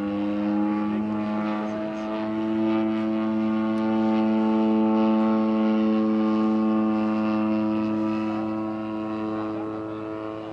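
Engine and propeller of a large-scale RC Super Decathlon model plane in flight, a steady drone that grows louder toward the middle and fades near the end as the plane passes.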